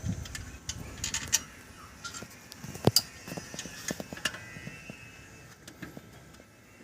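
Hand tools and metal parts clicking and tapping during hands-on alternator work, with one sharper knock about three seconds in.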